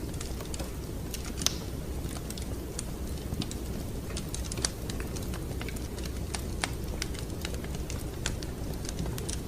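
Wood fire crackling in a fireplace: irregular sharp pops and snaps over a steady low rumble, with a louder pop about a second and a half in.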